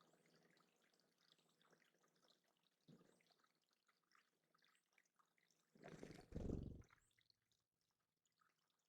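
Faint dripping and trickling of water from a small backyard bird pond's stream, with a brief, louder rush of noise about six seconds in.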